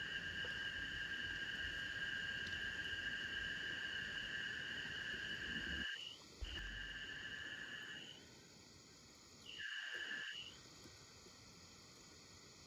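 Forest insects droning in two steady high pitches. The drone breaks off about six seconds in, picks up again, fades, and comes back briefly near the end.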